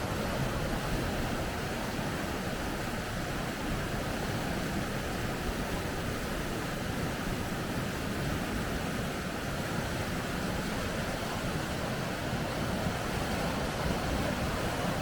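River rapids: water rushing steadily over rocks, a continuous even noise strongest in the low and middle range.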